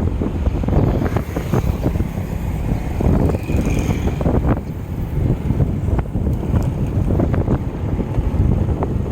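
Wind buffeting the microphone while riding a bicycle: a steady, loud low rumble with constant gusty thumps.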